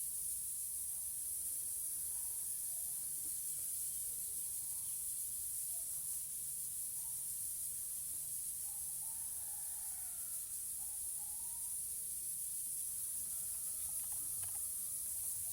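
A steady high-pitched hiss, with faint short chirps and whistles from parrots now and then, a few more of them together about halfway through and again near the end.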